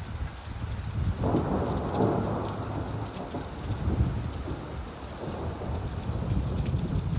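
Steady rainfall with a low roll of thunder that swells about a second in and keeps rumbling under the rain.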